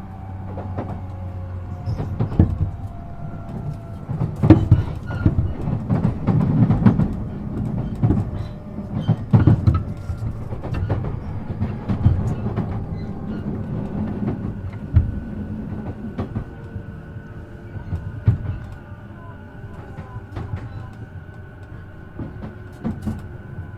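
E233-7000 series electric train running, heard from inside the car: a low running rumble with faint motor whine tones, and many sharp knocks and rattles of the wheels over rail joints and points, busiest in the first two-thirds.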